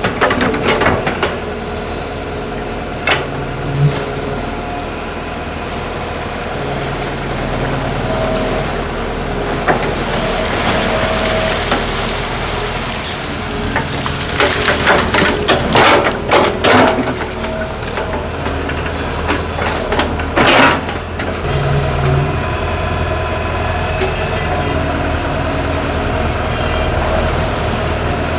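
Hitachi excavator running steadily with a low engine hum, with scattered metallic clanks and scrapes, a cluster of them about halfway through and a sharp one a few seconds later.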